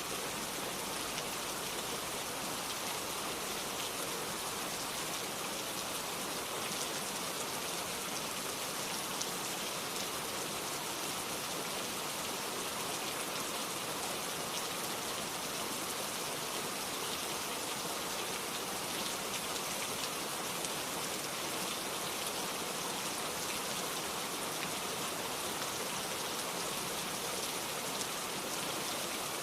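Steady rain falling, an even patter with many small drop ticks and no let-up.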